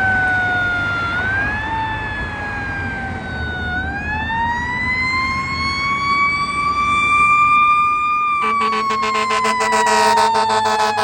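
Fire truck siren wailing, falling and rising in short sweeps, then climbing slowly and winding down again. About eight seconds in, a steady low horn blast joins it.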